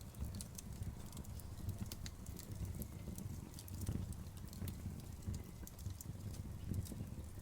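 Wood fire burning, with a steady low rumble of the flames and frequent irregular snaps and crackles from the burning wood.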